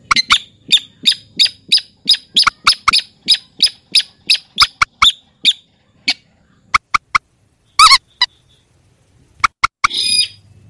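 Rail and crake calls (mandar and sintar): a fast run of sharp, clicking notes, about three a second. Then come a few scattered notes, and a louder, harsher call near the end.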